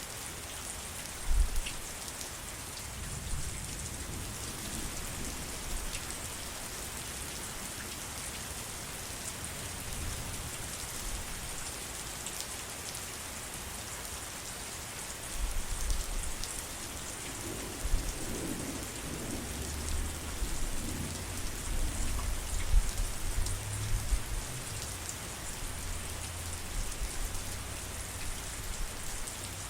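Steady heavy rain falling, an even hiss throughout. Low rumbling of distant thunder comes in through the second half, with a few brief low thumps.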